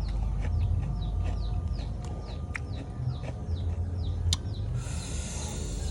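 A small bird chirping repeatedly, short downward-sliding notes at about three a second, over a steady low rumble. There are a few sharp clicks, and a brief rustling hiss about five seconds in.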